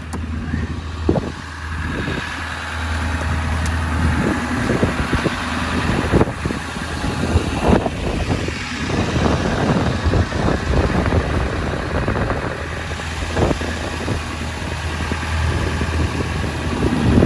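A vehicle engine idling steadily, keeping a charge going into the dead truck's cold batteries. Irregular clicks and knocks sound over it.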